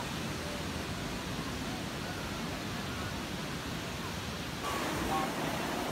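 Steady beach ambience: the even rush of surf and wind, with faint distant voices in it. It grows a little louder near the end.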